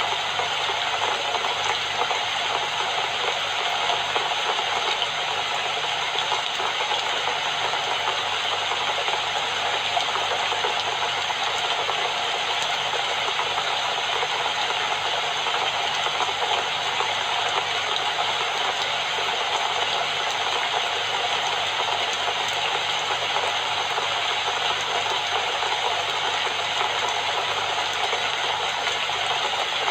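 Steady rain falling, a dense unbroken patter with no let-up.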